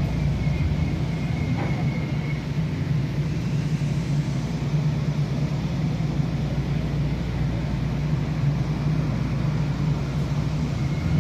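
Steady low rumble and road or track noise of a moving vehicle, heard from inside it.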